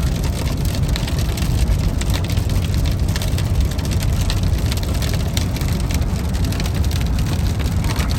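Steady road and engine rumble heard inside a moving car, with raindrops striking the car as many irregular ticks.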